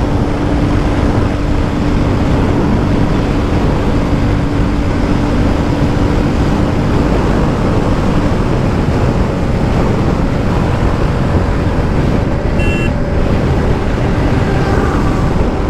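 Royal Enfield Classic 350's single-cylinder engine running steadily at top speed in fifth gear, around 125–130 km/h, under heavy wind rush on the microphone. A short high beep sounds near the end.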